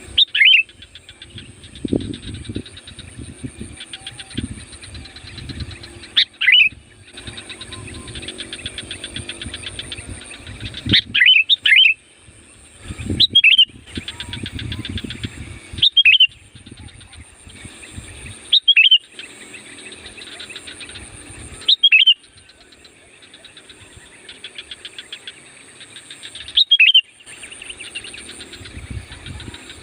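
Sooty-headed bulbul calling: about eight loud, short whistled phrases a few seconds apart, over continuous softer chattering of birds.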